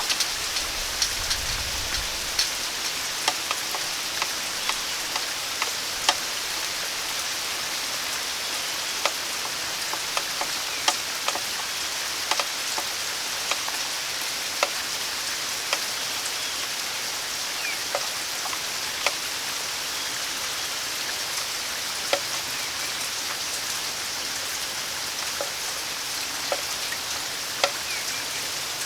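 Steady rain falling, a continuous hiss with louder individual drops hitting at irregular intervals, a few a second.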